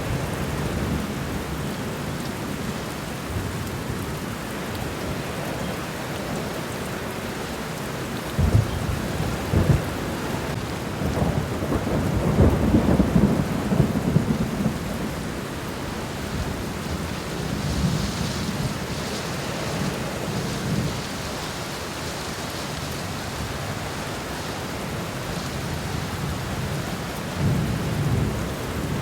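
Steady rain falling on the ground in a garden, an even hiss of drops, with low rumbling swells underneath. The loudest rumble comes about halfway through, and a shorter one comes near the end.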